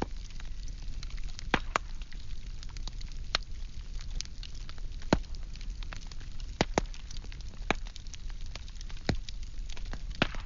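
Firewood burning: a steady low rumble of flames with irregular crackles and sharp pops from the wood.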